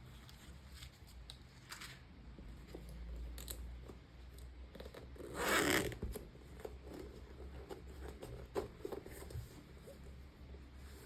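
Handling noises while unboxing a sling bag and its packaging: scattered light clicks and rustling, with one louder rasping sound lasting under a second about halfway through.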